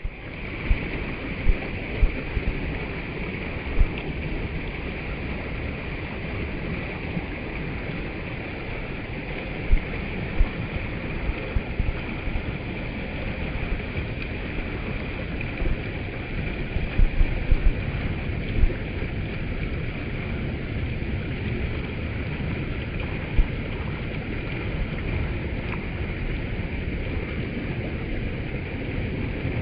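Mountain stream flowing, a steady rushing murmur of water, with a few brief low thumps scattered through it.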